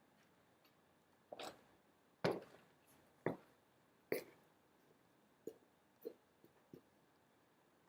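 Faint knocks and clinks of small hard objects being handled, about eight separate ones at uneven intervals, the loudest a little over two seconds in.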